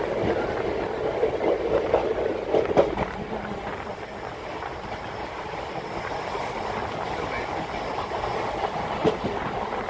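Indian Railways passenger express train running out of a station, heard from on board: a steady rush of wheel and rail noise with a few sharp clacks, the loudest about three seconds in and another near the end.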